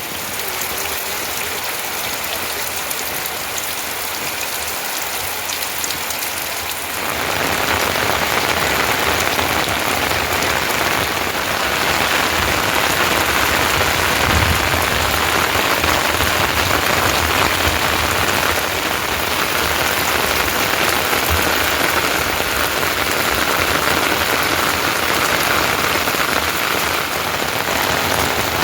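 Steady monsoon rain falling on surfaces, a dense even patter that grows louder about seven seconds in and stays heavy.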